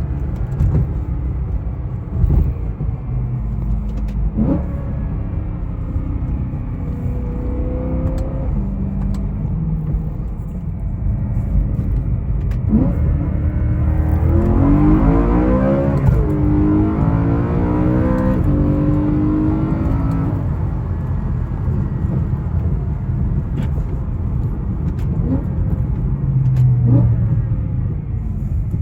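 BMW E90 M3's 4.0-litre V8 running on the road with a steady low rumble. Near the middle the revs climb and fall back several times as it accelerates through the gears.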